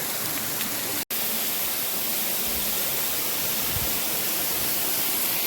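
Steady rush of falling water, an even hiss with no distinct events, broken by a very brief drop-out about a second in.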